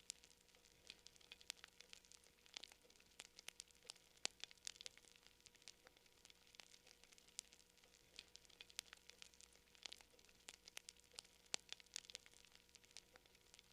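Campfire crackling: faint, irregular pops and snaps of burning wood, several a second.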